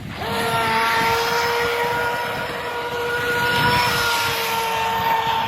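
Radio-controlled model boat's TFL outboard motor running at speed with a steady high whine that comes in at full throttle just after the start, over the hiss of water spray from the hull.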